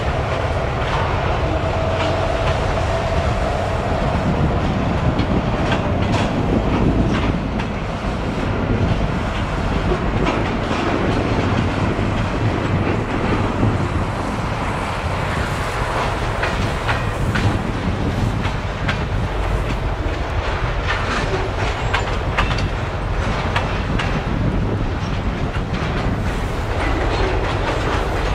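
Freight train rolling past, its wheels clicking and clattering over rail joints. A steady whine and a low hum are heard for the first few seconds.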